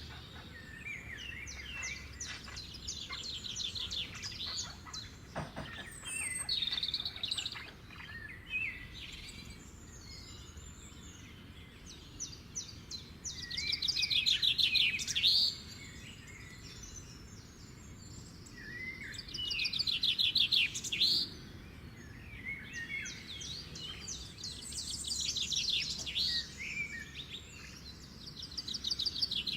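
Songbirds singing and calling: repeated phrases of rapid, high trills mixed with short chirps, the loudest phrases about halfway through and again about two-thirds through.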